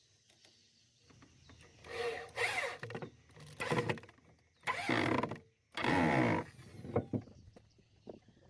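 Power drill running into wood in four short bursts of under a second each, then a few light clicks and taps.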